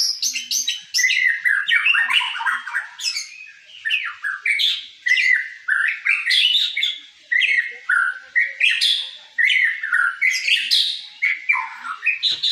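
White-rumped shama singing continuously: a fast, varied run of whistled and chirping phrases with only brief pauses between them.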